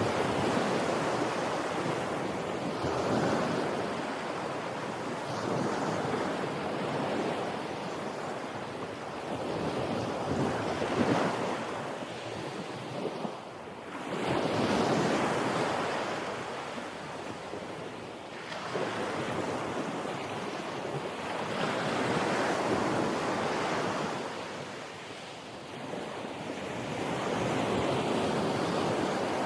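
Sea surf: waves breaking and washing in, the rush swelling and fading every few seconds, with wind on the microphone.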